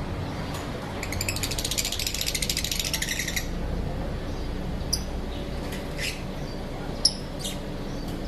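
Lovebirds calling: a rapid, buzzy trilled chatter lasting about two seconds starting a second in, then a few short, sharp high chirps, the loudest near the end.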